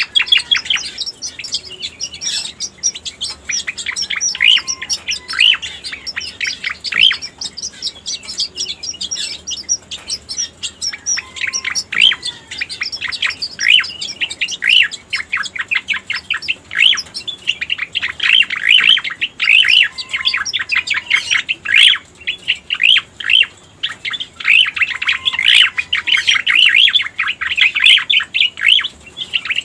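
Cica koreng (striated grassbird) song played as a lure call: long, fast trains of high chirps and trills run on without a break, growing denser in the second half, with a soft lower whistled note now and then.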